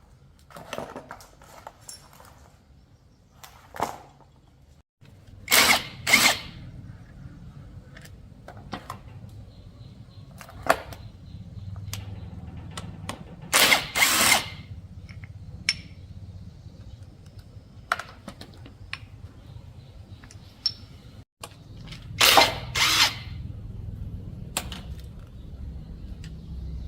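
Short bursts from a power tool during motorcycle repair, coming in pairs about every eight seconds, with lighter clicks of tools between them and a low steady hum underneath.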